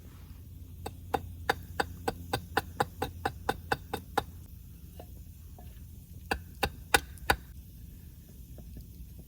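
Wood being struck with a tool while a log table is put together: a run of about a dozen quick knocks, roughly three a second, then four more after a short pause.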